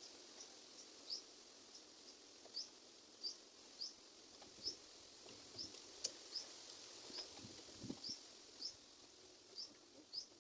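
Faint, repeated short high chirps from a small bird, about one or two a second, over a soft outdoor hiss.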